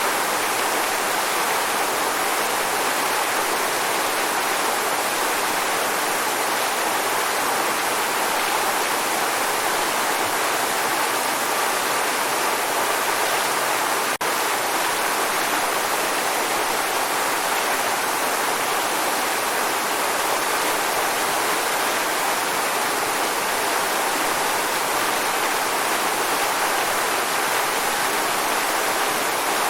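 Waterfall: a steady, unbroken rush of falling water, with a faint tick about halfway through.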